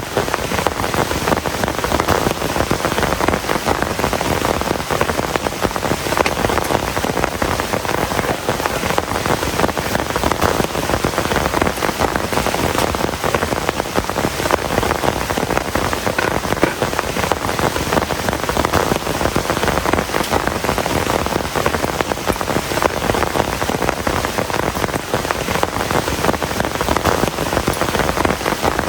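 Heavy rain falling steadily, a dense hiss full of close drops pattering on surfaces.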